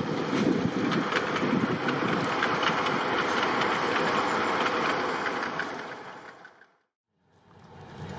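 Train running on the rails: a steady rumble with many small wheel clicks. It fades out to silence about seven seconds in, then a low rumble fades back in.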